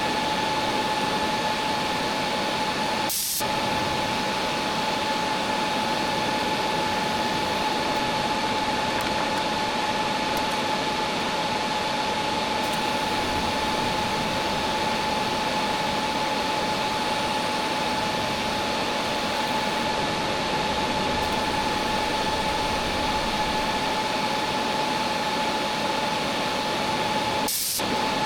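DC TIG welding on stainless steel at about 50 amps: a steady arc hiss with a constant high whine, broken by two brief dropouts about three seconds in and near the end.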